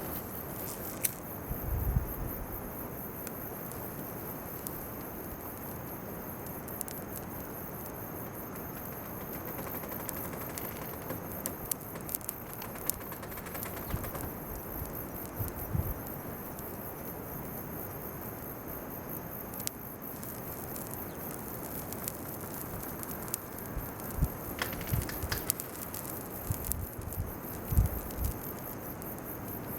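Bonfire of weeds and chestnut burrs crackling with scattered sharp pops, over a steady high chirring of insects. A few low thumps come through, about two seconds in, around sixteen seconds in and near the end.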